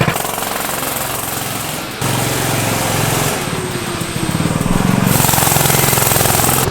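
The small single-cylinder 98cc engine of a Coleman CT100U mini bike running hard under way during a top-speed run. Its level and pitch shift abruptly about two seconds in and again about five seconds in.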